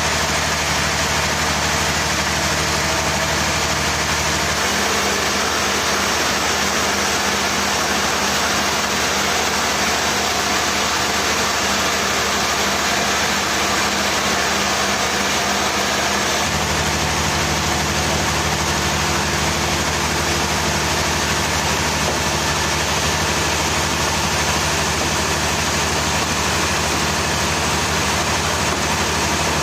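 A heavy engine running steadily under a constant hiss. Its low hum drops away about four and a half seconds in and returns about sixteen seconds in.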